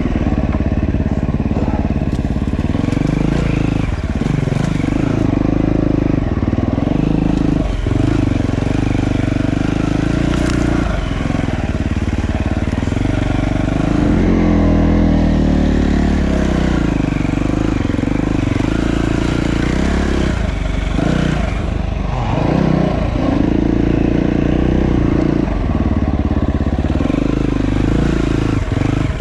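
Dirt bike engine running under load on a trail ride, its pitch rising and falling with the throttle, with several short drops as the throttle is rolled off or gears are changed.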